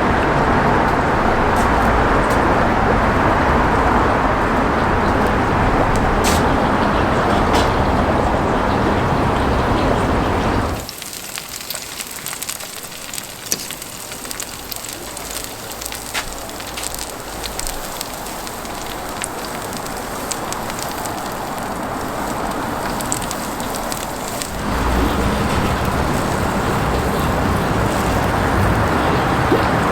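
Crackling from a charcoal grill fire, with scattered sharp pops, under a loud steady rushing noise that drops away suddenly for about fourteen seconds in the middle and then returns.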